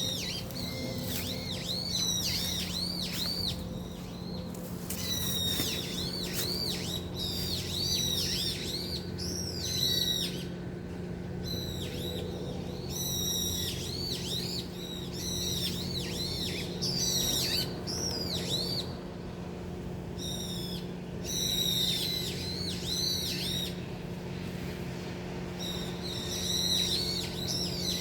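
Many small birds chirping and twittering at once, in spells of a few seconds with short pauses, over a steady low hum.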